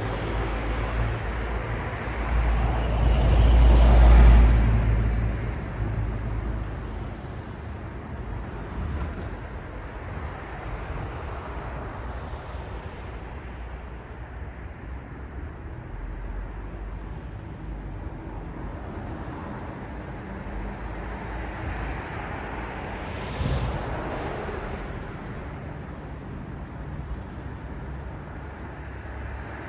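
City street traffic: a steady hum of road noise, with one vehicle passing close that swells to a peak about four seconds in and fades, and a shorter pass-by a little after twenty seconds.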